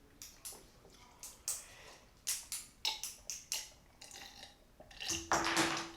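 Close-miked chewing and mouth sounds of someone eating a shrimp fried-rice pineapple bowl: a string of short wet clicks and smacks, then a burp about five seconds in.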